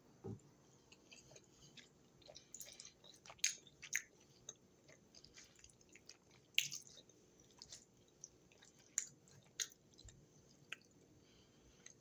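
A person chewing food close to the microphone: irregular short, crisp mouth clicks and crackles, loudest around three to four seconds in and again near seven seconds.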